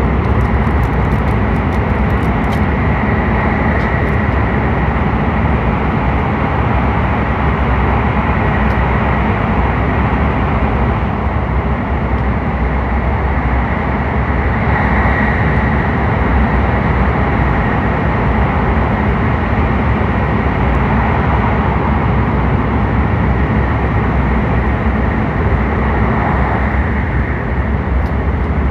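Steady, loud running noise heard inside a Hokuriku Shinkansen car travelling through a tunnel.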